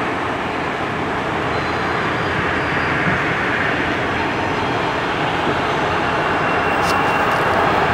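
A diesel-hauled train rolling past with a steady rumble of wheels and rail, with a brief sharp click near the end.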